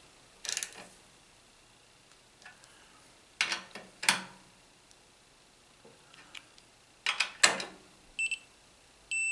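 Several sharp metal knocks and clicks from a socket wrench tightening the screw on the breaker points. Near the end comes a short high beep, then a steady beep from the continuity meter wired across the points; the meter beeps while the points are closed.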